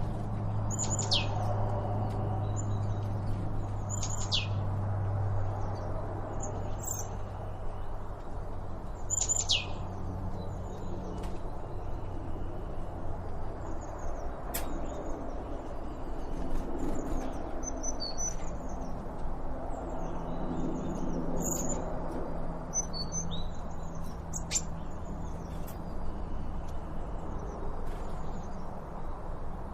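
Wild birds chirping and calling, with a sharp, quickly falling call repeated every few seconds and smaller chirps between, over a steady low hum.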